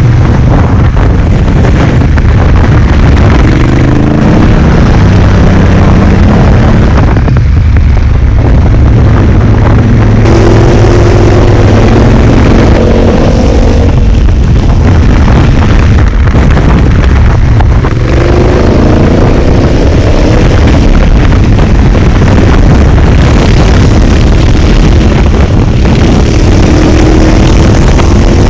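Motorcycle engine under way, its pitch climbing repeatedly as it accelerates and shifts up through the gears, over a constant heavy low rumble.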